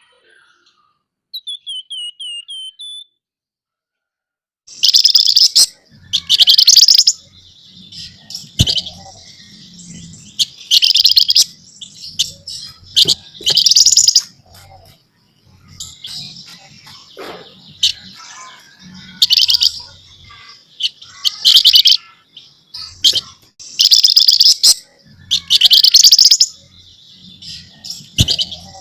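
Flamboyan songbird chattering in loud, harsh, rasping bursts about a second long, repeated every one to two seconds with softer chatter between them. A short run of quick rising notes comes first.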